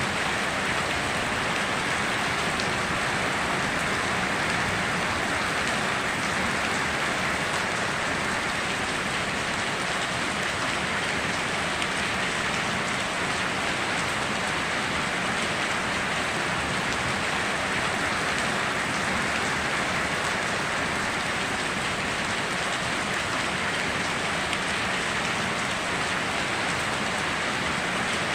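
Steady heavy rain, a dense even hiss of drops falling on surfaces, with fine patter and no thunder.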